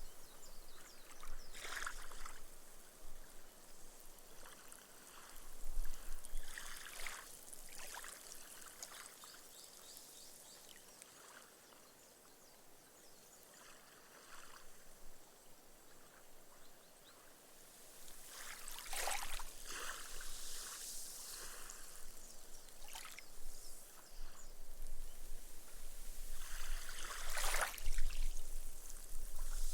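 Small, gentle waves lapping on a sand beach, each wash of ripples hissing and fizzing as the foam soaks into the sand. Several soft washes come in, with a quieter lull in the middle and the loudest wash near the end.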